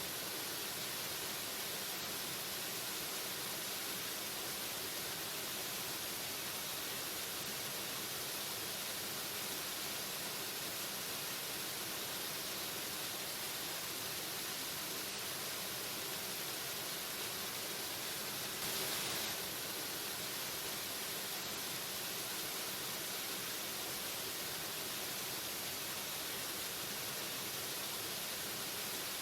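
Waterfall rushing steadily, an even hiss of falling water with a brief, slightly louder swell about two-thirds of the way through.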